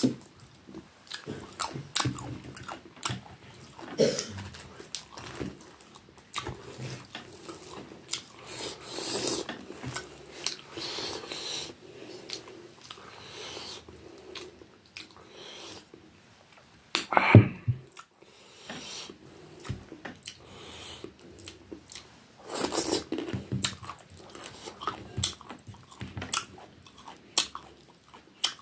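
A person chewing and biting a mouthful of rice and fish curry eaten by hand, close to the microphone: a steady run of small mouth clicks and chewing noises. One louder thud comes a little past halfway.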